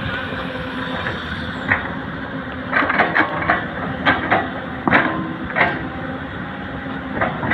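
Excavator's diesel engine running steadily while it works, with a string of sharp, irregular clanks and knocks starting a few seconds in.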